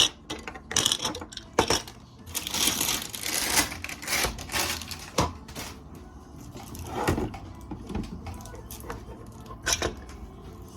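Small plastic toy pieces being handled and set down, giving irregular clicks and light clatters, with a stretch of rustling about two to four seconds in.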